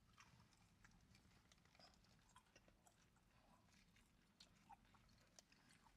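Faint chewing and biting sounds of people eating burgers and fries, a scatter of soft wet clicks in near silence.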